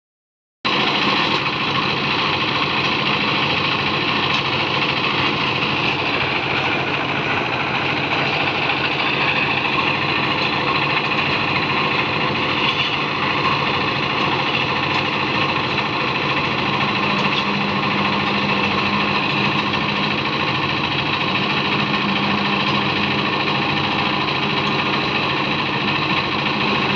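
An engine running steadily, making a dense, even drone that holds without let-up.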